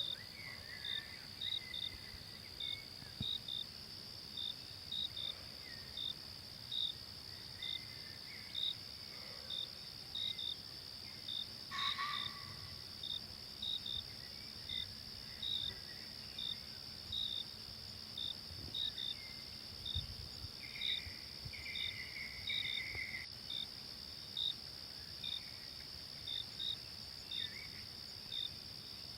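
Forest ambience of insects: a steady high drone with short high chirps repeating irregularly, about one or two a second, and a few faint bird calls. One brief sharp sound stands out about halfway through.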